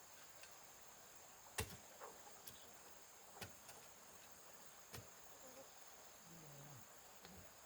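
Near silence with a faint, steady high insect drone, broken by three sharp knocks about a second and a half to two seconds apart.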